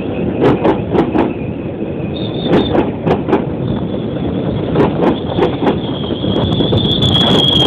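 GO Transit bilevel passenger coaches rolling past, their wheels clacking in pairs over rail joints above a steady rumble, with a high squeal from the wheels that grows louder near the end.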